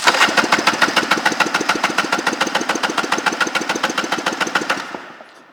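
Electric starter cranking a 1999 Tigershark 770's two-stroke twin engine for a compression test on the magneto-side cylinder: a rapid, even chugging of about eight pulses a second that starts suddenly and stops near the end. The test reads 127 psi on this cylinder.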